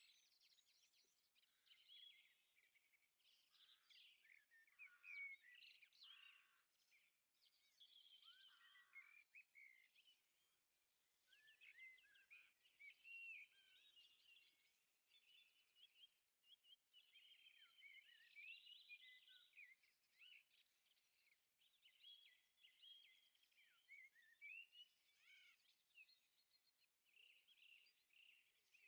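Faint birdsong: several small birds chirping and warbling at once in a steady, overlapping chorus of short high calls.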